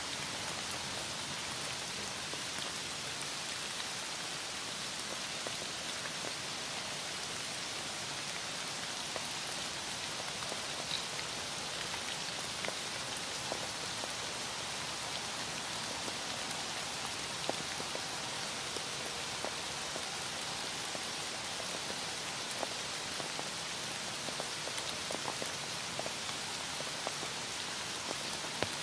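Heavy rain falling steadily, a dense even hiss with scattered sharper drop ticks standing out now and then.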